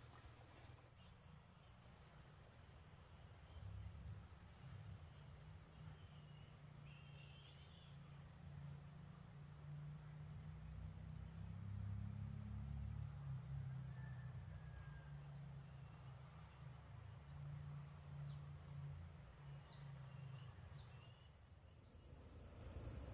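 Faint, steady high-pitched insect chirring, in long stretches that stop and restart, over a low rumble.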